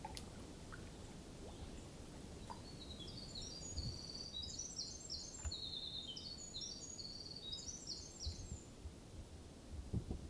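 A small songbird sings one long, jumbled song of rapid, high, clipped notes lasting about six seconds, starting a couple of seconds in, over a low background rumble and a few faint knocks.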